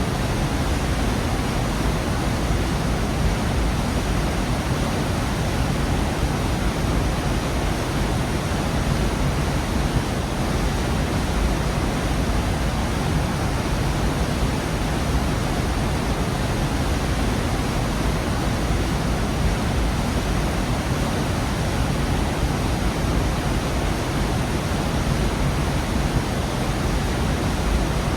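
Waterfall in a rocky gorge: a steady, full rush of falling water, strongest in the low end, with no breaks or changes.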